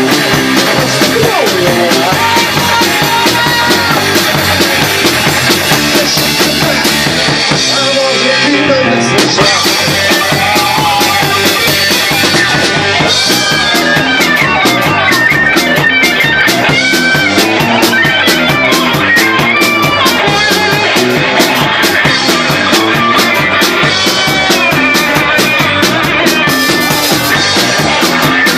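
Live rockabilly band playing an instrumental passage on guitar and drums. The high end thins out briefly about eight seconds in, and the drumming gets busier from about twelve seconds on.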